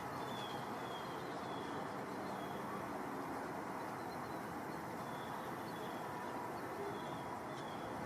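A small bird's faint chirps, two runs of about four short high notes each, one near the start and one in the second half, over a steady background hiss.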